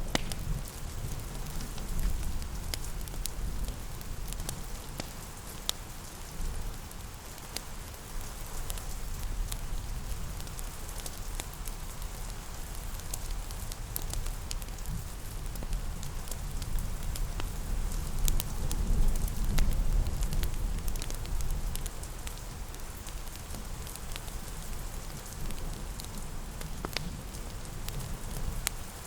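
Steady rain with a wood fire crackling: scattered sharp pops and snaps over the continuous hiss of the rain, above a low rumble.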